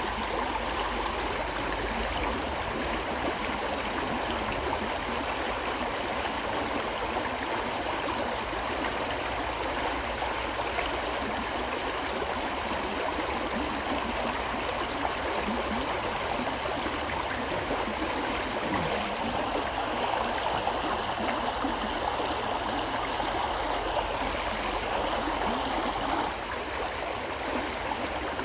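River water flowing steadily over rocks, a constant rushing and splashing with no breaks.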